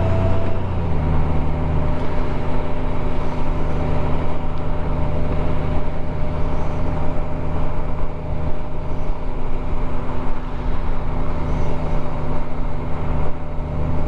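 Motorcycle engine under way, pulling up in revs and shifting up about a second in, then running at a steady cruise with wind and road noise.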